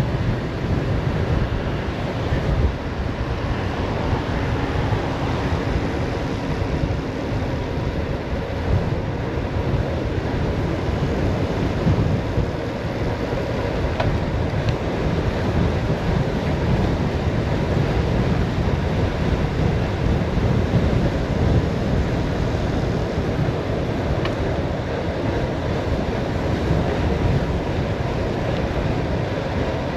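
Wind rushing and buffeting over the camera microphone while the bicycle coasts downhill at speed, a steady loud rumble with no tone.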